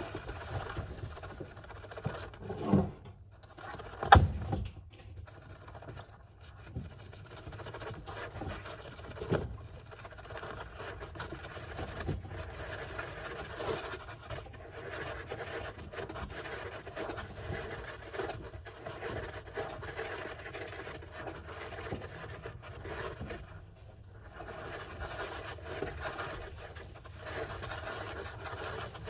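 A hamster scratching and digging in its bathing sand, a steady scratchy rustle. Two louder knocks come a few seconds in, the second one the loudest.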